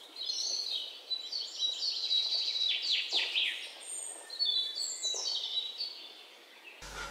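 Birds chirping and twittering: a run of high, quick chirps with several short falling notes around three seconds in, a brief lull, then more chirps that fade out near the end.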